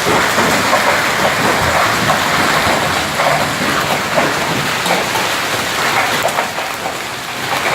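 Heavy rain with large hailstones pelting down, a loud, steady, dense clatter of many small impacts.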